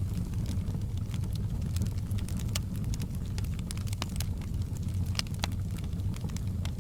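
Campfire burning, with irregular sharp crackles and pops of the burning wood over a steady low rumble.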